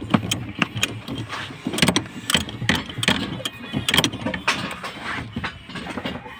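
Irregular clanks and knocks of tools and metal parts during removal of a car's steering rack and pinion, with an engine running in the background.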